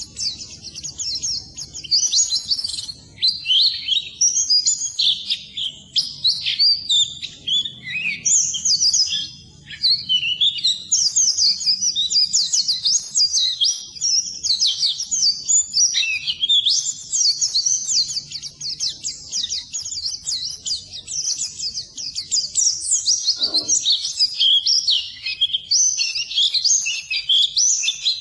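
Pleci (white-eye, Zosterops) singing a rapid, unbroken twittering song of high chirps and short trills.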